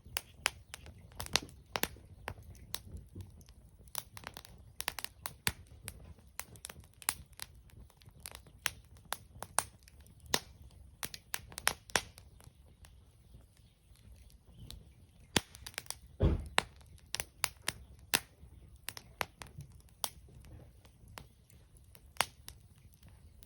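Wood fire crackling, with irregular sharp pops and snaps several times a second over a low rumble; one dull thump about sixteen seconds in.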